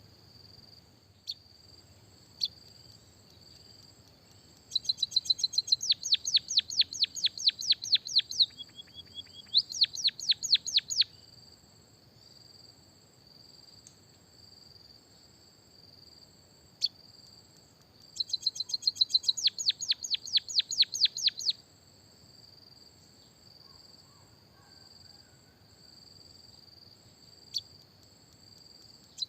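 White-headed munia singing: two bouts of fast, evenly repeated high chirps, a few seconds each, about five seconds in and again past the middle, over a steady thin high-pitched buzz.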